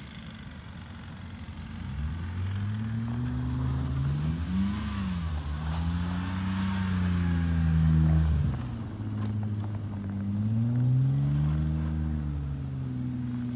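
Car engine revving hard while drifting on snow, its pitch climbing and falling again and again, with a hiss of spinning tyres throwing snow. The revs drop just after the loudest point, about eight seconds in, then climb again.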